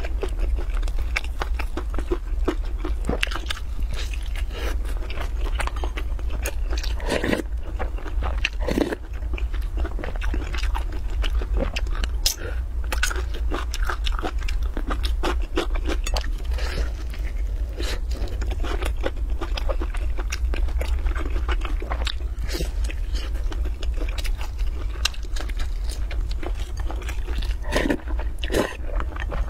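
Close-miked chewing and crunching of a crisp, flaky pan-fried pancake, with many irregular small crackles and mouth sounds, over a steady low hum. Near the end, a noodle is slurped from a spoon.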